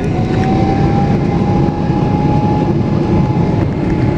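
Boeing 777 jet engines running loud and steady, with a thin whine that rises slightly in pitch in the first second or so and then holds.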